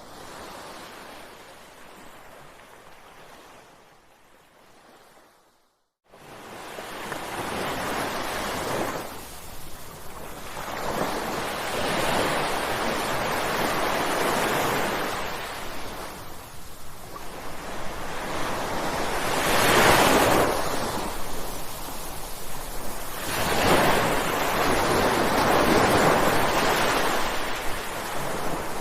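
Ocean surf: waves breaking and washing ashore in repeated swells of noise. A softer wash fades away, the sound cuts out almost completely for a moment about six seconds in, then louder waves surge back.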